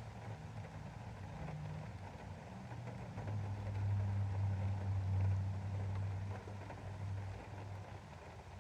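A passing motor vehicle's engine hums low and steady, swelling to its loudest about four to five seconds in and then fading, over rain pattering steadily on a window.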